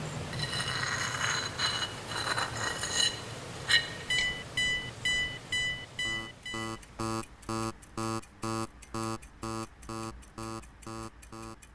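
Alarm-like ringing for about three seconds, then a run of clean high electronic beeps about two a second. Around the middle these give way to an even pulsing pattern of low tones with sharp high ticks at about two a second, musical in character.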